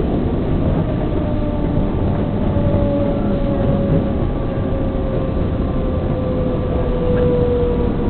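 Train running with a steady heavy rumble and a high tone that slowly falls in pitch.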